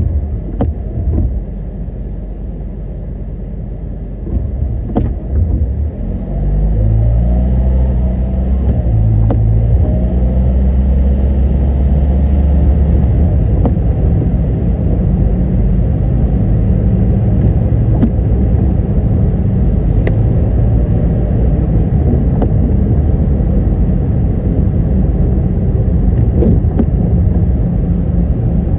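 Car driving on a road, with engine and tyre rumble. About six seconds in it pulls away and gets louder, the engine note rising as it gathers speed, then it runs on steadily with a few sharp clicks.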